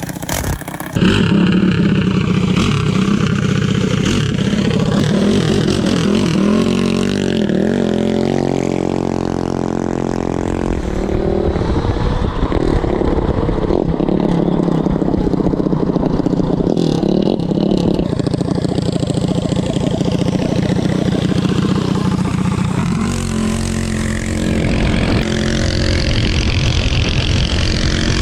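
A full-race drag minibike's single-cylinder gas engine runs loud, starting about a second in, and revs up and down, its pitch rising and falling several times.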